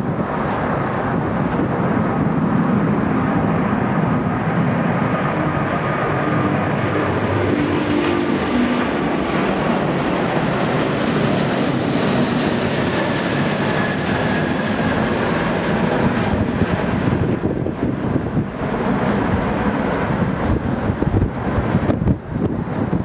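Jet airliner's engines passing close by, the noise brightening to its fullest about halfway through and then fading away. Wind gusts on the microphone near the end.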